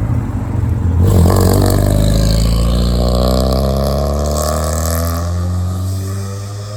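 A car engine driving past close by. It is loudest about a second in, then its note falls steadily and fades as the car moves away.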